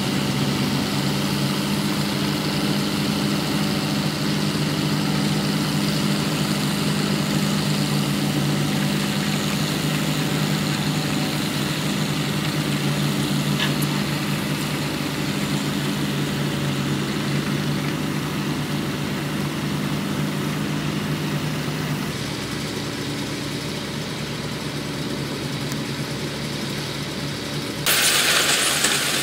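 Diesel engine of heavy construction machinery running steadily with a low hum. The sound shifts about three quarters of the way through, and near the end a sudden loud rushing noise takes over.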